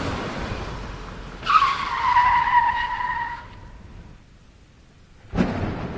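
A rushing noise, then about a second and a half in a car's tyres screech for about two seconds in one slightly falling squeal.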